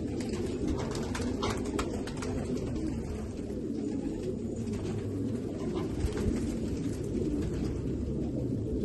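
Several domestic fancy pigeons cooing together in a low, continuous burble, with scattered light ticks and clicks over it.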